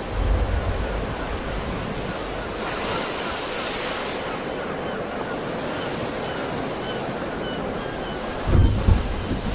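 Sea waves washing onto the shore, one wave breaking with a brighter hiss about three to four seconds in. Wind buffets the microphone in low rumbles at the start and again near the end.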